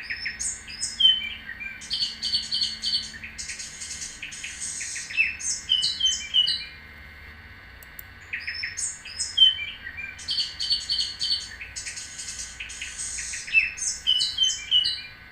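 Recorded birdsong: a quick sequence of high chirps, trills and whistles, the same phrase played twice with a pause of about a second and a half between.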